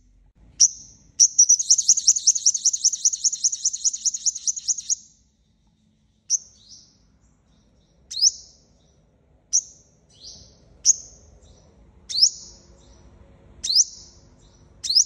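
Sunbird calling: a fast, high trill of about eight notes a second for roughly four seconds, then single sharp high chips about every second and a half.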